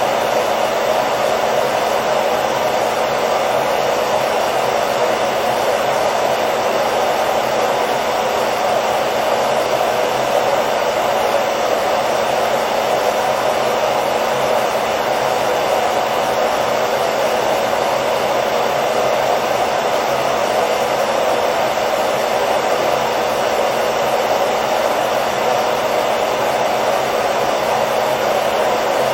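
Hair dryer running at a steady, constant whoosh of blown air and motor hum, used as a continuous white-noise sleep sound for a baby.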